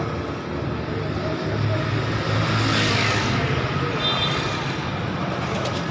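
Road traffic noise: a steady low engine rumble, with a vehicle passing about three seconds in and a short high beep about a second later.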